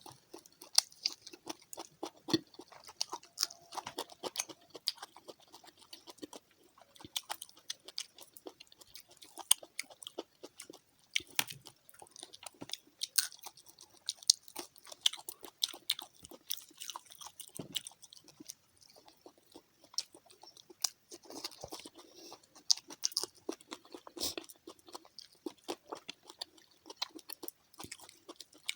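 A person chewing and crunching fried fish close to the microphone: a dense, irregular run of small sharp clicks and crunches with no pause.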